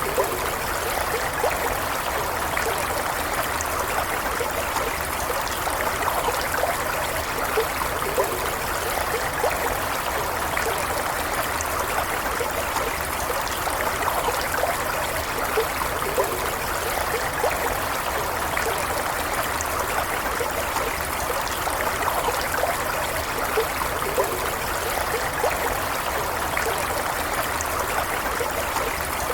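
Shallow stream running steadily, an even rush of flowing water with small trickles and gurgles.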